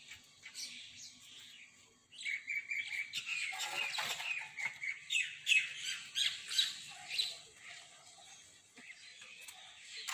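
Small birds chirping and twittering, with a busy run of quick, high chirps from about two seconds in that thins out near the end.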